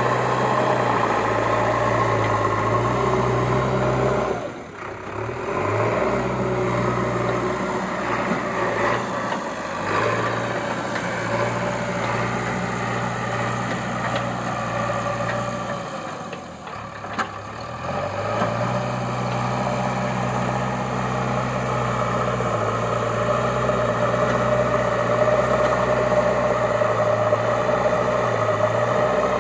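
Engine sound running steadily, its low hum stepping up and down in pitch, dropping briefly about four seconds in and again around sixteen seconds.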